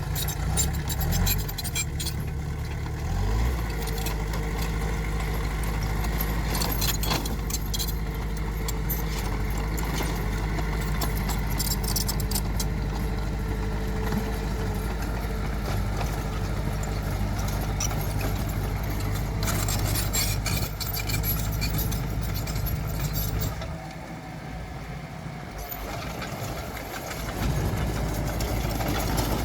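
Heavy diesel engine of earthmoving machinery running, its pitch rising a couple of seconds in and then holding steady, with scattered metallic rattling. The engine falls quieter for a few seconds near the end, then comes back up.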